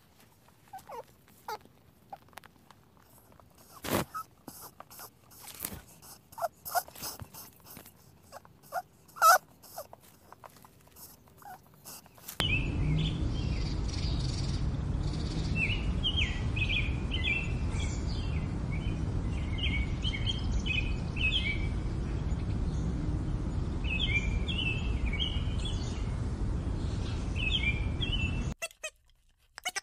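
Young rabbits shifting in straw: scattered light clicks and rustles. About twelve seconds in, a steady rushing background starts, over which small birds give short chirps again and again.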